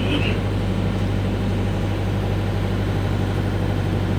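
Airport apron shuttle bus engine running with a steady low hum.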